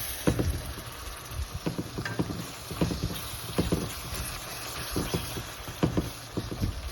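Irregular knocks and scrapes of a spoon or spatula stirring chicken in a cooking pot, over a steady sizzle or bubbling.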